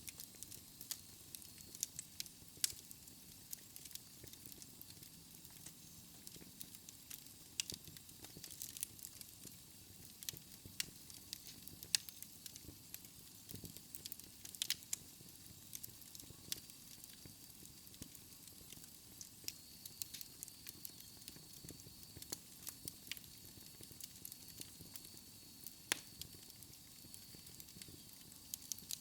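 Fire in a fireplace crackling, with irregular sharp pops over a soft steady hiss. A faint thin high whistle comes in about halfway through.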